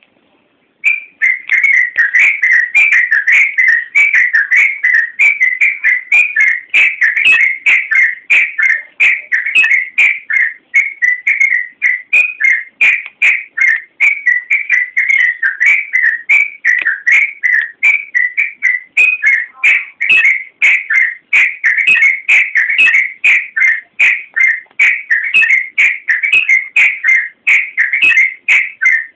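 Yellow-vented bulbul (trucukan) singing: a fast, unbroken stream of bright, bubbling whistled notes that starts about a second in.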